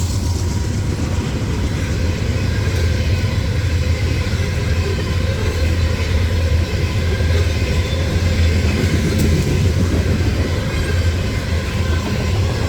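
Freight train passing close by: a steady, loud, heavy rumble of the train rolling on the rails.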